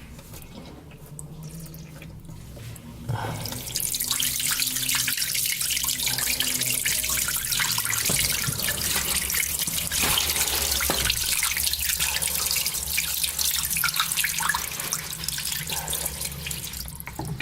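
Trapped water gushing out of the opened drain-filter housing of a Daewoo top-loading washing machine. It starts suddenly about three and a half seconds in, after a few faint clicks, runs steadily and eases off near the end.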